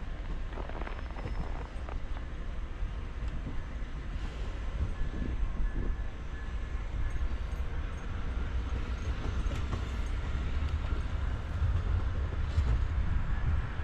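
Amtrak California Zephyr passenger train departing, its cars rolling past with a steady low rumble and scattered small clicks, growing slightly louder toward the end.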